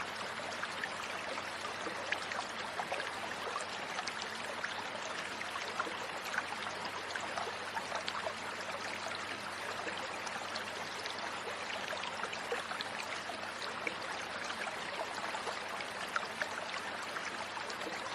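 Steady rushing noise of flowing water, like a stream, with faint scattered ticks and no birdsong.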